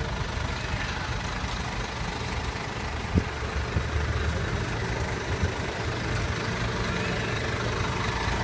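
Hino 500 truck's diesel engine idling steadily with a low rumble. There is a single sharp knock about three seconds in and a few lighter thumps after it.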